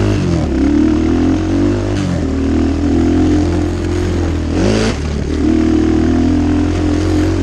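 250cc Chinese dirt bike engine running hard at steady revs in a high gear, with a brief drop and pick-up in revs about two-thirds of the way through.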